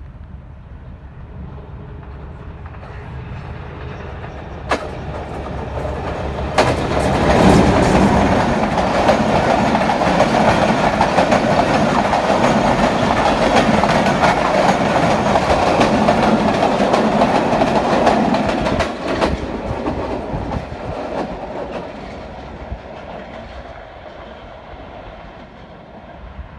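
Passenger train led by a Hitachi PHA-20 diesel-electric locomotive approaching and passing close by. The locomotive grows louder over the first six seconds or so and jumps up sharply as it draws level. For about the next twelve seconds the coaches go by with a rapid clatter of wheels over the rail joints, then the sound fades as the train runs away.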